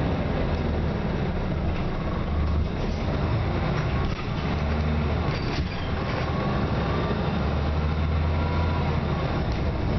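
2006 Scania Omnicity single-deck bus's diesel engine running, a low steady hum that dips and resumes a couple of times, with road and body noise.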